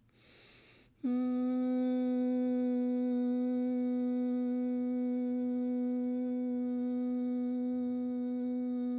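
A woman's voice toning one long note at a steady pitch for sound healing, starting about a second in.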